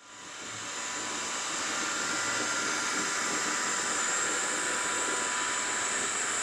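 Robot vacuum cleaner running: a steady whirring hiss from its suction fan with a thin high whine over it, fading in over the first second.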